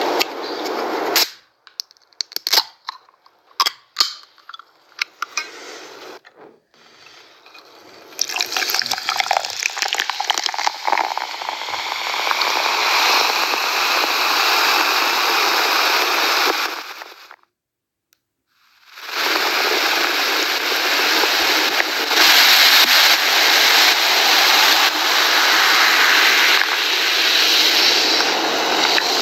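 Coca-Cola fizzing close to the microphone, after a few sharp clicks and pops. The fizz runs as a steady hiss, cuts out briefly about two-thirds through, then resumes.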